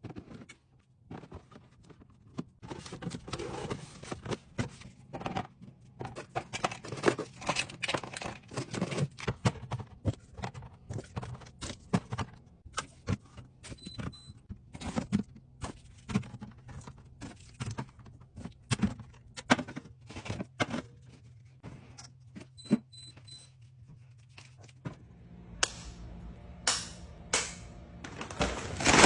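Irregular light clicks, taps and clinks of food containers and packaging being handled and set down while restocking a fridge, over a steady low hum. A few louder knocks come near the end.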